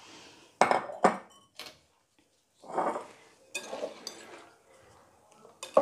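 A utensil knocking and scraping against a mixing bowl as stiffly beaten egg whites are scooped into the mixture: a few short clinks, a longer scrape about three seconds in, and a sharp knock near the end.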